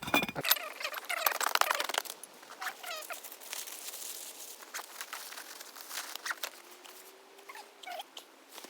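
Crinkling and clicking handling noise for about the first two seconds, then faint short bird chirps over a quiet outdoor background.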